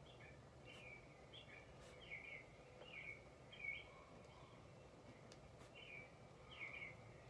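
Faint birdsong ambience: short, high bird chirps repeating about once a second over a low steady background hum, with a few soft clicks.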